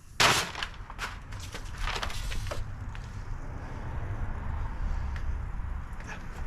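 Short hissing sprays from an aerosol can, one just after the start and a longer one about two seconds in, with small handling clicks between, over a low steady rumble.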